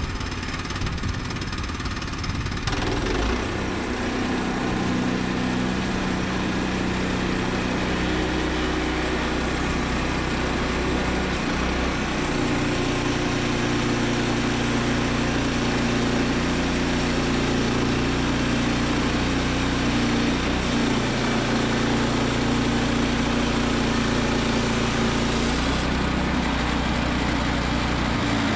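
Small gasoline engine running steadily, its note shifting about three seconds in and again near the end.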